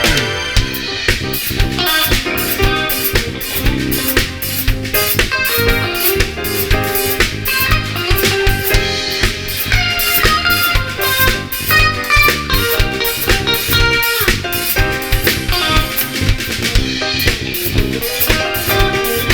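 A band playing an instrumental passage, with a drum kit keeping a steady beat under keyboard and guitar.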